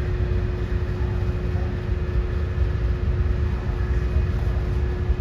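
Steady low rumble with a constant hum running through it: a ferry's engines and machinery heard on board while under way.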